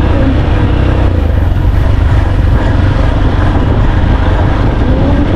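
Motor vehicle under way: the engine runs steadily with a loud, constant low rumble of driving noise.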